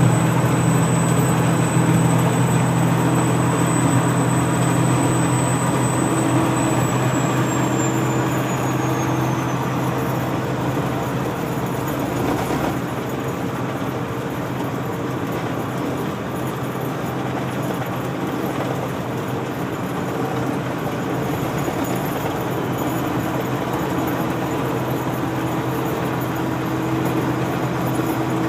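1995 Detroit Diesel Series 60 470-horsepower diesel engine running steadily. A high whine over it holds, then falls in pitch and fades out about seven to ten seconds in.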